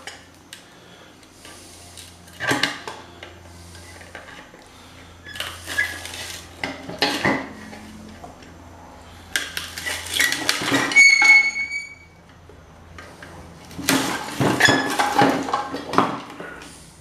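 Metal tools and motor parts clanking and clattering on a workbench in several short bursts, with one metal piece ringing out briefly about two-thirds of the way through.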